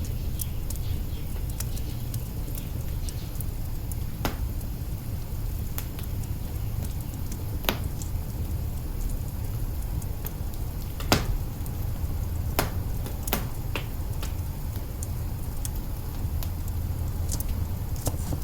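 Wood fire crackling in an open hearth: irregular sharp pops and snaps over a steady low rumble, the loudest pop about eleven seconds in.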